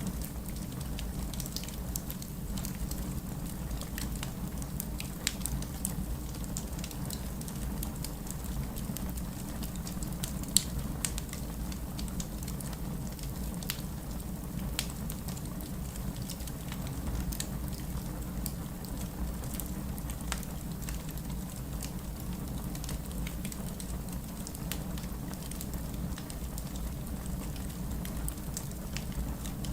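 Fireplace crackling, with scattered sharp pops and one louder pop about ten seconds in, over a steady low rumble of rain.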